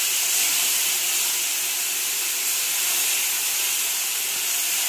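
Freshly added poppy-seed and green-chilli paste sizzling in hot mustard oil in a frying pan, a loud, steady hiss as the wet paste steams off.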